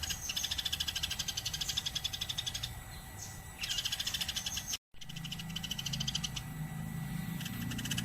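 Eurasian tree sparrow chattering in fast runs of high, repeated chirps. The runs pause briefly about three seconds in and cut out for a moment just before halfway.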